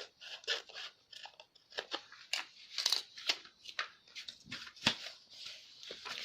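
Scissors snipping through paper in a run of short, crisp, irregular cuts, with the paper rustling as it is cut.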